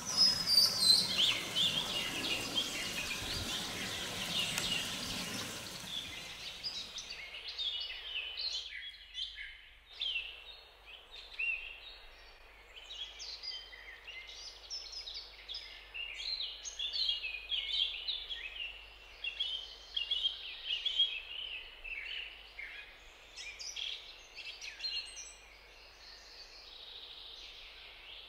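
Many small birds chirping and calling in quick, short notes. A broad rushing noise sits under them for the first seven seconds or so and then stops.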